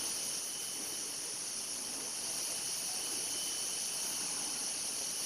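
Rainforest insect chorus: a steady, high, hissing drone, with a thin high whine held underneath it.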